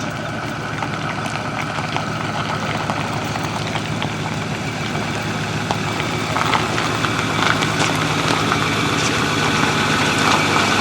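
Vehicle engine running steadily, a low even drone that grows slightly louder over the few seconds.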